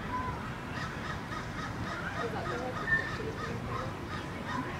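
Birds calling: a run of short, repeated calls over a steady low background rumble, with one brief, louder call about three seconds in.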